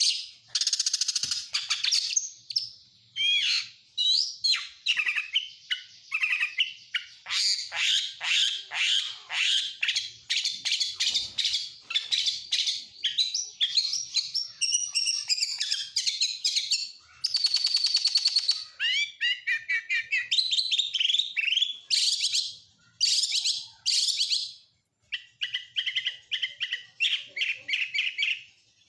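Oriental magpie-robin (kacer) singing a long, varied song of fast whistles, trills and chattering phrases with short pauses between them, mixed with phrases mimicking lovebird, canary and prinia, a buzzy trill about two-thirds of the way through.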